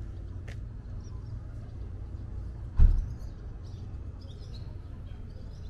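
Small birds chirping faintly over a steady low rumble of outdoor background noise, with one sharp thump about three seconds in.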